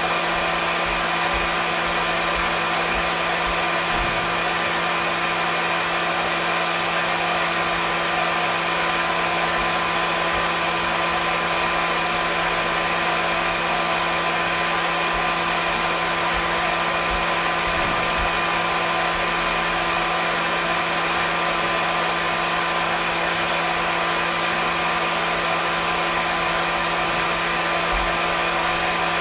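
Hair dryer running steadily: a constant rushing hiss of air with an even motor hum beneath it.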